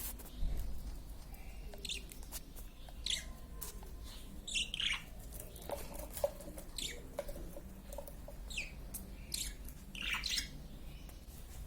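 Small birds chirping and calling in short, scattered bursts, with a few brief clicks in between.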